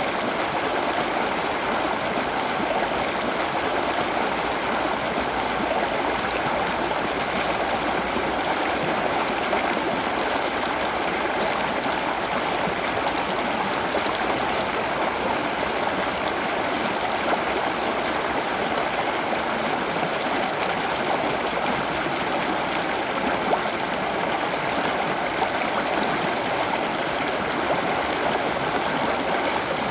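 Steady running water, a continuous even rush like a stream or small waterfall.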